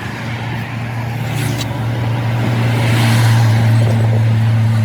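A road vehicle's engine gives a steady low hum, with traffic noise swelling about three seconds in.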